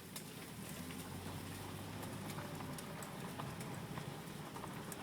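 Hooves of a passing cattle herd clopping in many scattered, irregular clicks, over a low steady hum.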